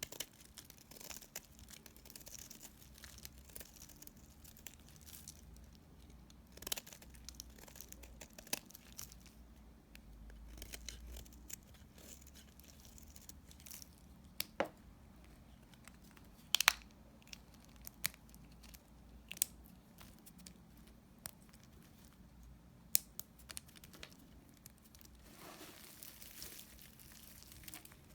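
Leftover bits of bar soap being cut with a blade: soft scraping and crumbling, broken by many sharp snaps and clicks, two of them louder than the rest.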